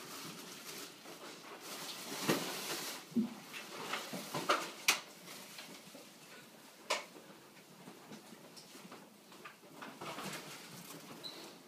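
Handling noises around a kitchen fridge: a stretch of rustling and a handful of sharp clicks and knocks as things are moved about.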